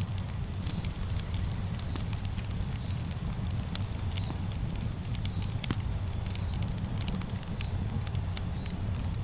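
Campfire crackling, with scattered sharp pops over a low steady rumble. A short high chirp repeats about once a second.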